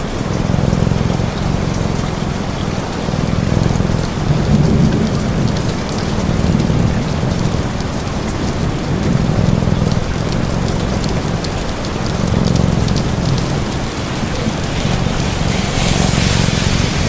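Steady rain with a low rumbling cat purr swelling and fading every couple of seconds, and scattered small crackles from a fire. The rain hiss brightens for a moment near the end.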